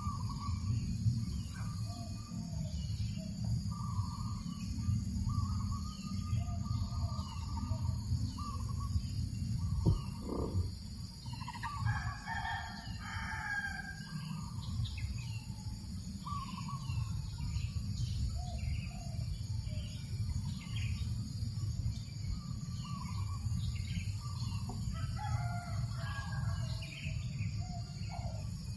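A rooster crowing, about twelve seconds in and again near the end, over the steady chirping of small birds and a low rumble of breeze.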